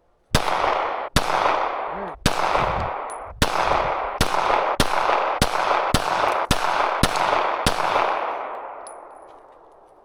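A rapid string of about eleven gunshots, fired roughly one a second and faster toward the end, each followed by a long rolling echo that fades away after the last shot.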